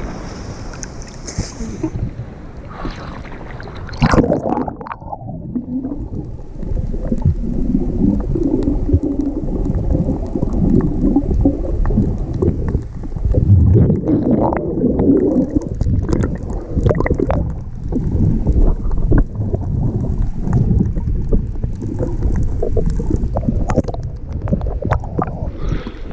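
Rough sea waves heard from in the water: a loud splash about four seconds in, then muffled low rumbling and gurgling of churning water, as when the microphone is submerged in the surf.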